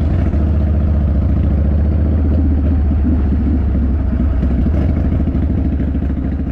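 Harley-Davidson motorcycle's V-twin engine running steadily at an even, low pitch, starting abruptly.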